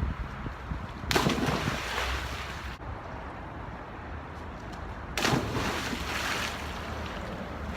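Water splashing in two sudden rushes, each a second or two long, about four seconds apart.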